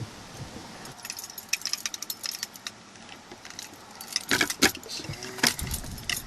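A steering wheel lock being fitted and locked onto a truck's steering wheel: small metallic clicks and rattles, then a few louder knocks near the end.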